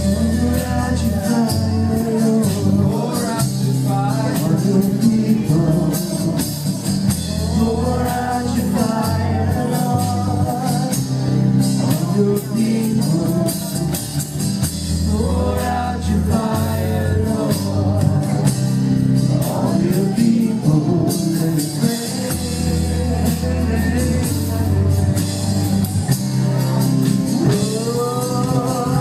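Live worship band playing: a singer's voice over guitar, keyboard and drum kit, with sustained low bass notes shifting every couple of seconds and steady cymbals.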